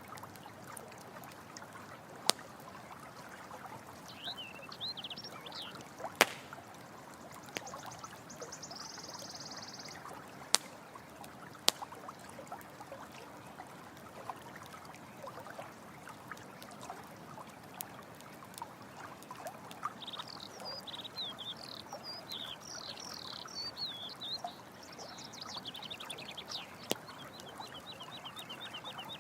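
Running water trickling steadily, with sharp pops from a crackling campfire every few seconds. High chirping calls come a few times, most densely through the last ten seconds.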